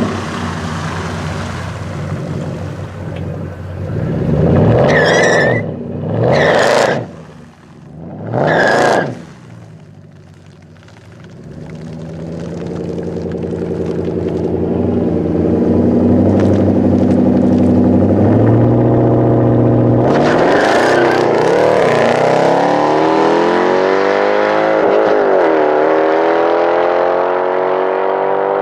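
Drag-strip car engines: three loud passes in quick succession, then a steadier, quieter engine note. After that, a turbocharged Mercedes-AMG CLS63 V8 accelerates hard, rising in pitch, with a short break in the rise partway through like a gear change.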